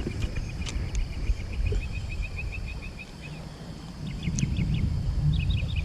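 A small bird calling in quick runs of short, evenly spaced high notes over a steady low outdoor rumble, with a few faint clicks.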